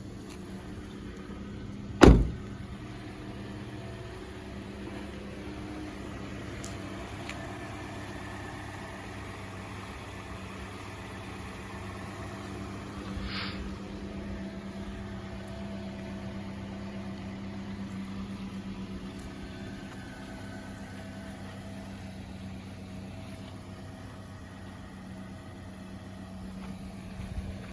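2018 Toyota Corolla SE's 1.8-litre four-cylinder engine idling with a steady hum. A single loud thump comes about two seconds in.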